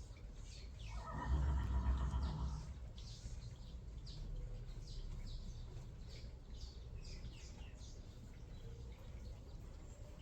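Small birds chirping repeatedly in quick, short notes, with a brief louder noise about a second in that lasts a second or so.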